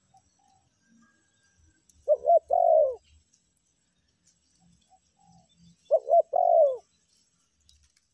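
Spotted dove (tekukur) cooing: two call phrases about four seconds apart, each of two short coos followed by a longer coo that falls in pitch.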